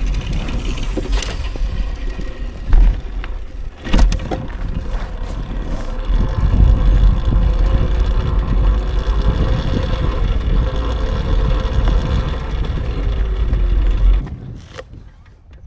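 Riding noise from an electric dirt bike: heavy wind buffeting on the microphone with a faint motor whine that wavers up and down, and two sharp knocks about three and four seconds in. The rumble cuts off suddenly near the end.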